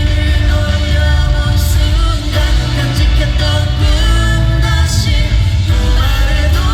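Pop-rock song performed with a sung vocal line over a band, with strong bass and drums.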